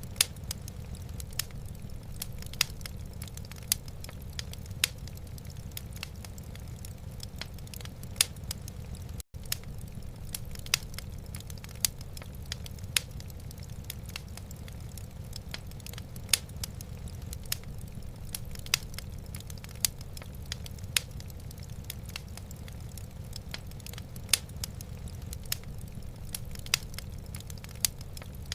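Wood fire burning in a fireplace, crackling with irregular sharp pops, a louder one every second or so, over a steady low rumble. The sound drops out for a split second about nine seconds in.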